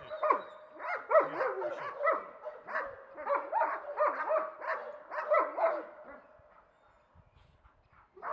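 Dog barking and yelping, a quick run of high calls that stops about six seconds in.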